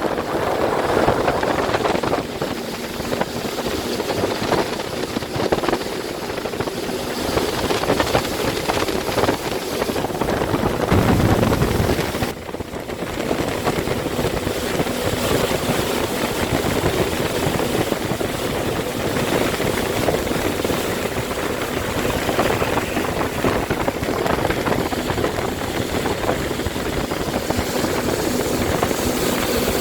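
Jet ski (personal watercraft) engine running steadily at speed under a rough rushing noise, with a louder low rumble about eleven seconds in and a brief dip just after.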